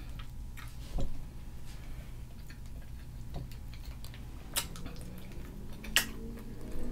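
Close-miked eating sounds: quiet chewing of seafood-boil food with a few sharp mouth clicks and smacks, over a steady low hum.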